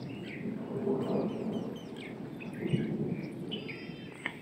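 Small birds chirping in quick, scattered calls, over a low rushing noise, with one sharp click near the end.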